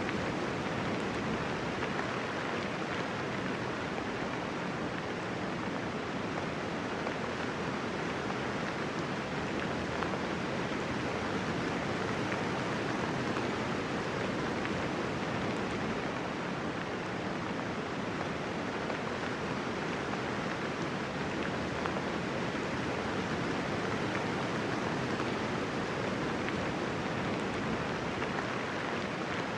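Steady rainfall, a gentle rain with no thunder, an even hiss of drops that does not change in strength.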